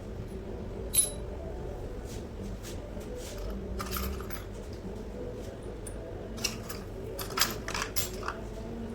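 Metal parts clinking against one another: one sharp, ringing clink about a second in, a few softer clinks around the middle, and a quick run of clinks near the end.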